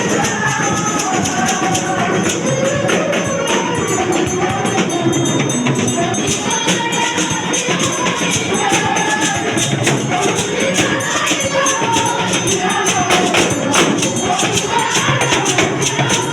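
Voices singing together over a jingling tambourine, gospel-style praise music.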